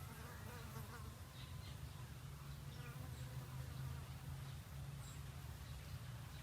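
A steady low buzzing hum, with faint chirps in the first second and small scattered ticks.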